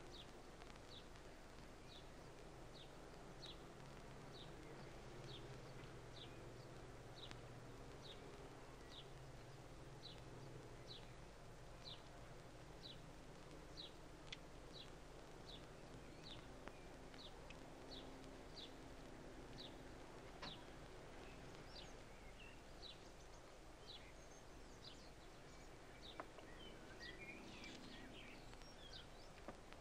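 Faint outdoor ambience: a bird repeating a short high chirp about three times every two seconds, with more varied twittering joining near the end, over a steady background hiss.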